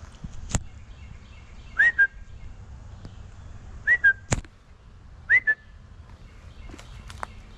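Three short, loud whistled calls about two seconds apart, each sliding up then settling briefly on a lower note, with two sharp clicks in between.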